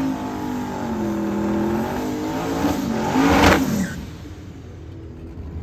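Drag-racing vehicles at full throttle, engine pitch rising and falling as they pull down the strip. One passes close and loud about three and a half seconds in, then the sound falls away to a low rumble.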